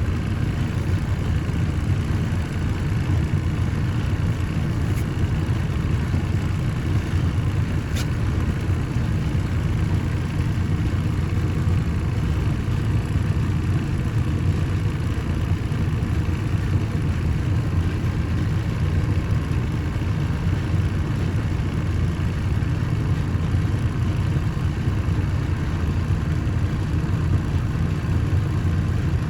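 Steady low machinery rumble, continuous and unchanging, with a faint click about eight seconds in.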